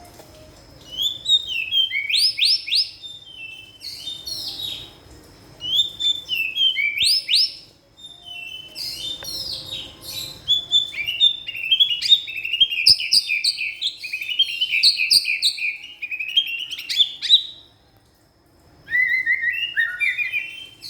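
White-rumped shama (murai batu) singing loud, rapid phrases of sharp whistles, chips and trills, including fill-in notes copied from other birds. Short phrases with brief gaps give way to a long unbroken run of song, then a short pause near the end before it starts again.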